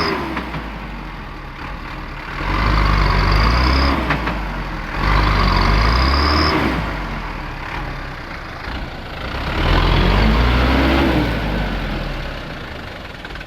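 Truck engine revved up three times, each rise falling back to a lower running speed in between.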